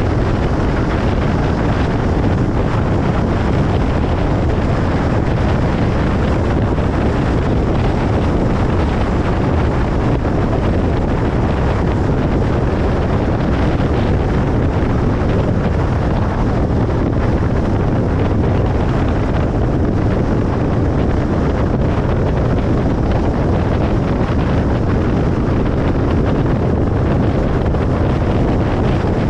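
Steady road and tyre noise of a car travelling at speed on a motorway, an even low rumble that does not change.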